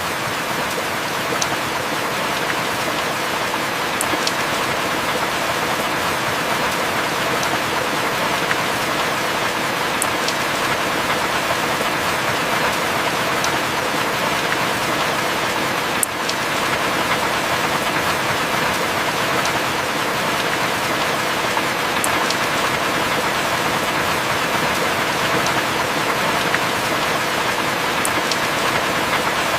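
Heavy rain falling steadily, with a faint sharp drip tick about every six seconds.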